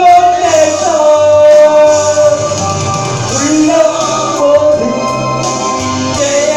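Worship song: a voice singing over instrumental accompaniment, held notes gliding between pitches.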